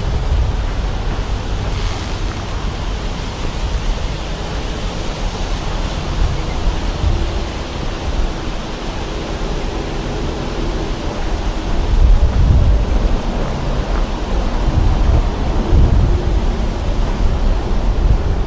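Wind rushing over the camera's microphone, a steady rushing noise with stronger low buffeting gusts about twelve seconds in and again about fifteen seconds in.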